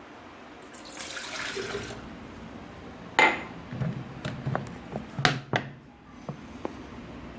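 Water pouring for about a second, followed by a series of sharp clinks and knocks of kitchenware being handled, the loudest about three seconds in.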